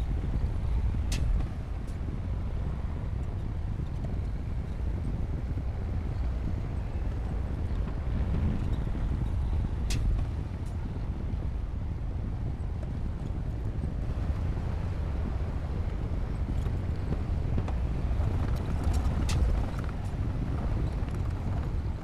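Bulldozer diesel engine running steadily with a low rumble, broken three times by a short sharp click or clank.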